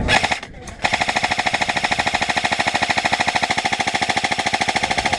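Airsoft gun firing a long full-auto burst: a rapid, very even rattle of shots with a steady whine under it, starting about a second in after a short pause.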